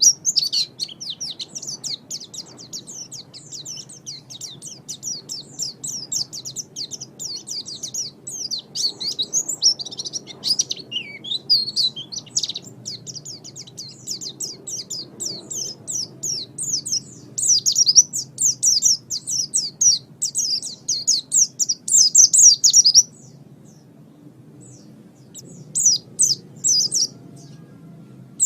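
Pleci (white-eye) singing a long, fast run of high twittering notes. It stops about 23 seconds in, then resumes in short bursts near the end.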